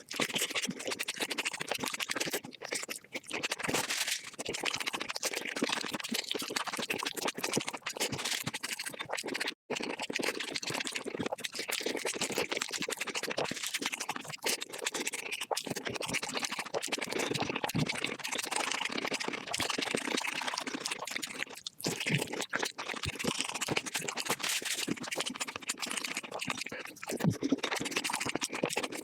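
Eating sounds of chicken dishes played at five times normal speed: chewing and biting run together into a dense, continuous scratchy crackle, broken by two brief dropouts.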